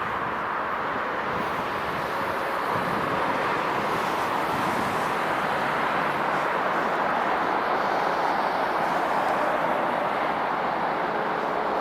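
A passing train rolling by with a steady rushing noise, a little louder from about three seconds in.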